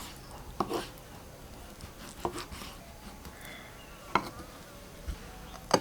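A handful of sharp, separate knocks and clicks from kitchen utensils working sliced shellfish on a cutting board, about five spread over a few seconds, the loudest near the end.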